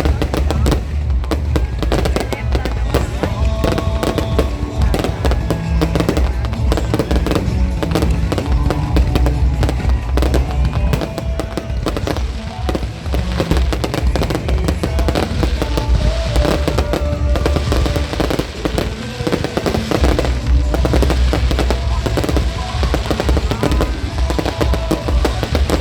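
Fireworks display going off continuously: a rapid, dense run of bangs and crackling bursts with deep booms, and music playing underneath.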